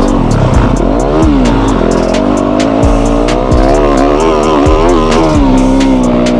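Yamaha YZ250F's 250 cc four-stroke single-cylinder engine being ridden hard on a motocross track. The revs rise and drop several times as the rider shifts gears and works the throttle, wavering quickly about four seconds in.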